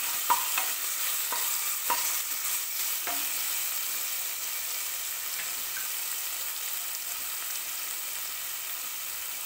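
Ginger-garlic paste, green chillies and whole spices sizzling steadily in hot oil in a non-stick kadai over low heat, with a few knocks of a wooden spoon against the pan during the first three seconds.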